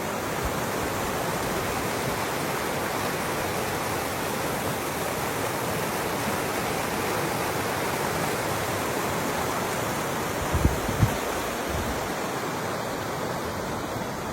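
Rushing water of a mountain stream: a steady, even noise with no let-up. Two brief low thumps come a little past the middle.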